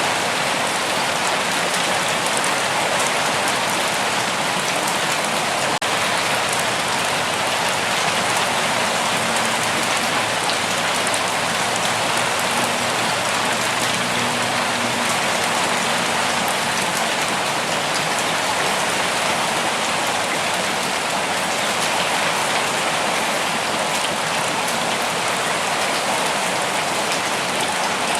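Steady rainfall, an even hiss of rain falling on foliage and surfaces with no let-up.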